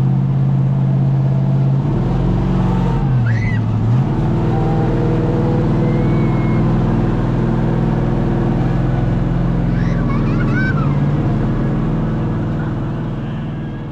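A vehicle engine running steadily, dipping in pitch about three seconds in and then settling back to a steady note. It fades out near the end.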